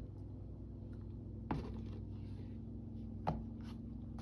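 Two light taps, about two seconds apart, over a steady low hum.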